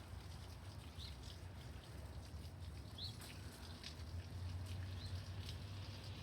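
Faint steady low hum with a few short, high rising chirps and scattered light ticks.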